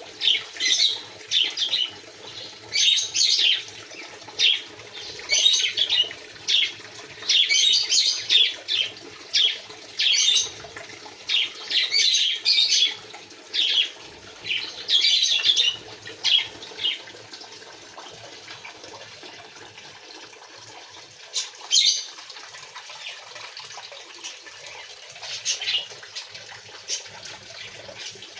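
Quail in an aviary chirping in clusters of short, high calls, coming thick and fast, then thinning out to occasional bursts after about seventeen seconds.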